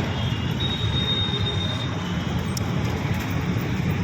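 Express train running past, a steady heavy rumble of wheels on the rails, with a thin high squeal from about half a second in, lasting over a second.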